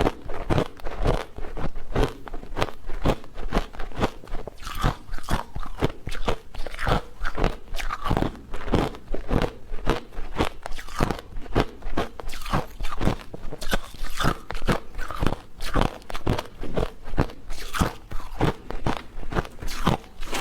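Close-up chewing with crisp crunches, repeated steadily about two to three times a second.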